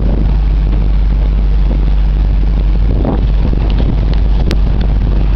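Chevy 327 four-barrel V8 in a 1977 GMC pickup running steadily, with heavy wind rumble on the microphone.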